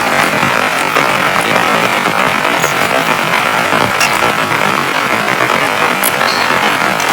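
Heavy rain falling steadily, a loud, even hiss with a few faint ticks above it.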